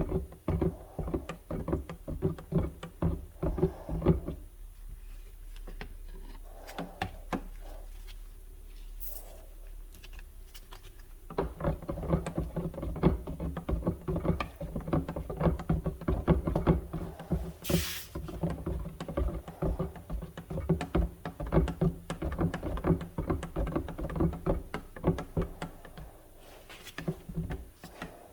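Bed liner coating being stirred in its container: fast, irregular knocking and scraping of the stirrer against the can, easing off for several seconds near the start before picking up again.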